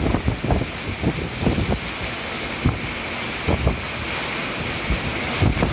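Storm winds gusting around 50 mph with wind-driven heavy rain: a steady rushing roar, with irregular low buffeting of the wind on the microphone that grows stronger near the end.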